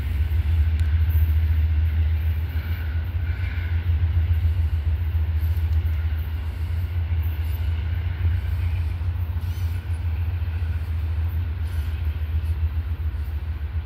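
GE ES44AC diesel locomotive and its freight cars rolling away: a steady low rumble that slowly fades as the train recedes.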